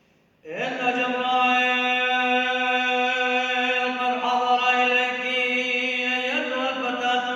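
Solo male voice chanting an Arabic liturgical hymn in long held, melismatic notes, starting about half a second in and changing pitch twice.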